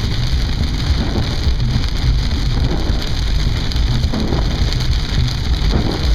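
Rain pattering on a moving car over a steady low rumble of the road and engine, heard from inside the car.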